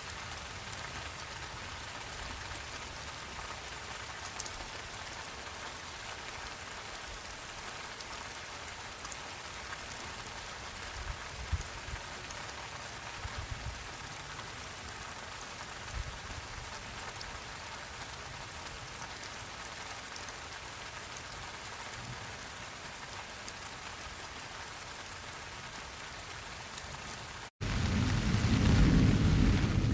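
Steady rain falling, an even hiss with a few heavier low thuds midway. Near the end the sound drops out for an instant, and a loud, low rolling thunder rumble begins.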